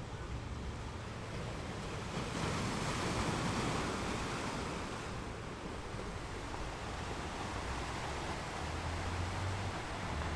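Ocean waves washing onto a shore. One wave swells about two seconds in and fades away by about five seconds, over a steady low rumble of surf.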